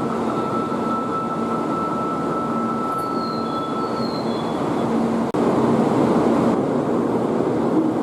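Shinkansen train noise at the platform: a steady rushing hum with a thin high whine that stops about halfway through. About five seconds in the sound breaks off for an instant and comes back a little louder.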